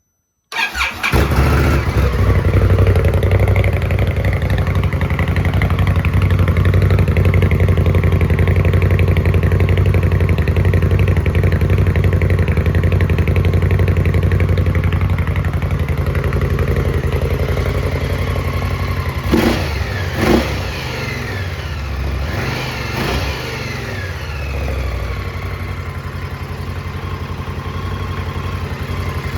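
2017 Indian Scout's V-twin, on its original mufflers with the rear baffle drilled out, starts abruptly about half a second in and idles loudly. Two quick throttle blips come about two-thirds of the way through, then it settles to a quieter idle.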